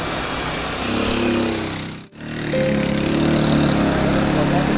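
A motor vehicle engine running steadily, with a brief drop-out to near silence about two seconds in.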